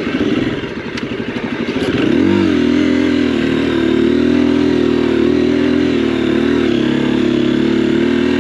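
Single-cylinder dual-sport motorcycle engine under way on a dirt trail. It chugs at low revs for about two seconds, then the revs rise and hold steady, easing off right at the end. A few sharp clicks sound in the first two seconds.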